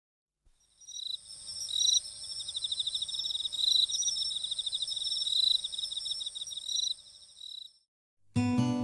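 High-pitched, rapidly pulsing insect-like chirping trills, cricket-like, lasting about seven seconds. Near the end it stops and guitar music begins.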